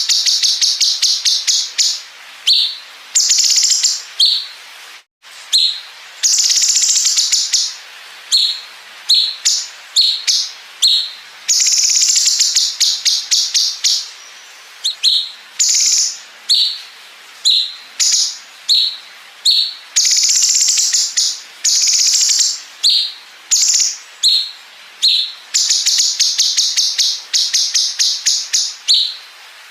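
Sooty-headed bulbul (cucak cungkok) singing high, rapid machine-gun-like trills, the 'bren' fill. Short bursts alternate with longer runs of a second or more, repeated over and over with brief gaps.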